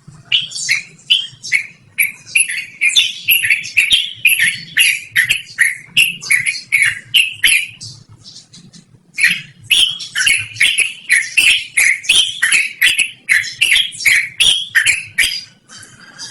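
Yellow-vented bulbul (trucukan) singing a long, rapid run of loud chirping notes, about three a second, breaking off for about a second and a half midway before going on.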